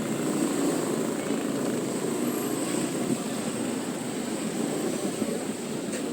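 Motor scooter running steadily under way, a continuous drone of engine and road noise with a thin high steady tone above it.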